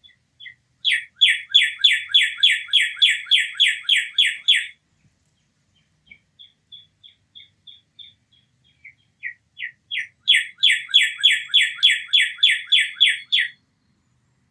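A wild songbird singing: two runs of quick repeated notes, each about three seconds long, with a few fainter single notes in between.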